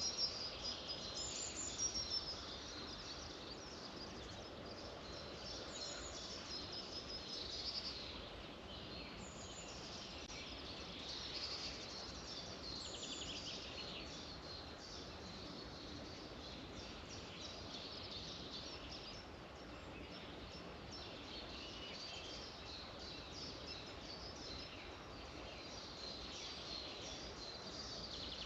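Several small songbirds chirping and singing over a steady background hiss of outdoor ambience.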